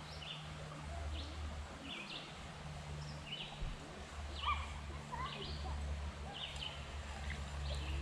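A songbird calling, short chirping notes repeated about once a second, over a steady low rumble.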